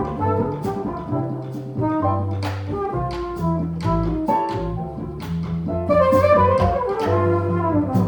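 Small jazz band playing live: saxophone and trumpet lines over bass, piano and drums, with regular drum and cymbal strikes.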